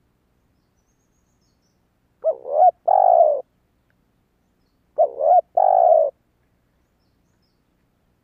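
Spotted dove cooing: two phrases about three seconds apart, each a short rising-and-falling note followed by a longer drawn-out coo.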